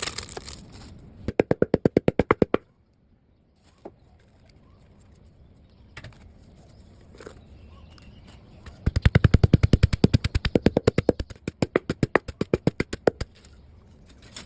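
Rapid knife chopping on a cutting board, about ten strokes a second: a short run about a second in, then a longer run of about four seconds in the second half, with a few single knocks between.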